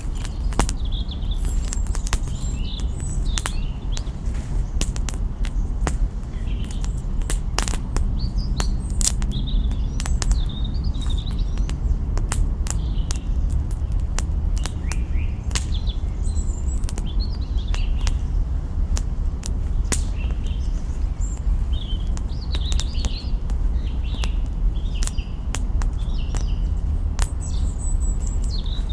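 Campfire crackling, with sharp irregular pops of burning twigs over a steady low rumble, while small birds chirp and twitter throughout.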